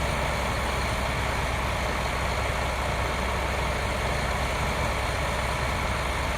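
Heavy diesel truck engines running steadily, a constant low drone: the concrete pump truck and ready-mix truck working through a foundation pour.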